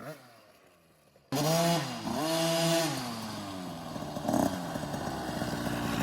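Small 50cc two-stroke dirt bike engine, a Husqvarna TC50, cutting in suddenly about a second in and revving up and down twice, then running at a steadier pitch. A short thump comes around four seconds in.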